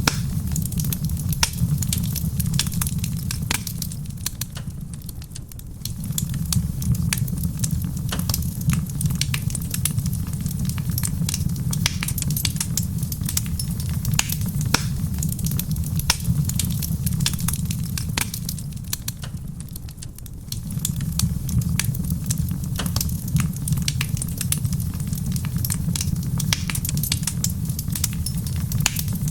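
Wood fire crackling in a stone fireplace, with frequent sharp pops and snaps over soft rain on a roof and a steady low rumble. The low rumble dips twice, about four seconds in and again about eighteen seconds in, and comes back.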